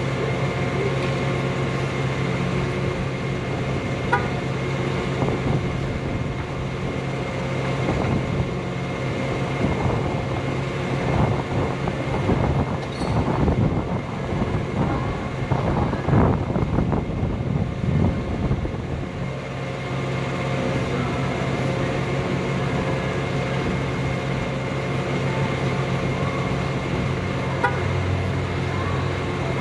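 Rollback tow truck's engine running steadily with a low hum, getting rougher and louder with rumbling and rattling for several seconds midway.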